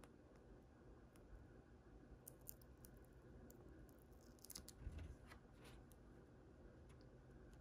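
Faint handling of toy blind-bag packaging: scattered small clicks and crinkles, busiest in the middle, with a soft thump about five seconds in.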